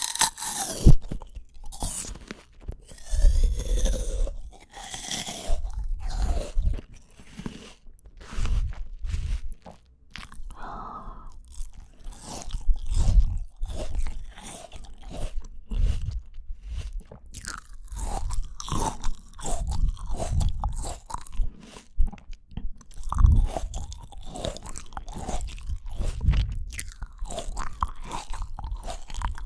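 Close-miked chewing of fresh fruit (strawberries or apple): a steady run of crisp bites and crunches with wet mouth sounds between them.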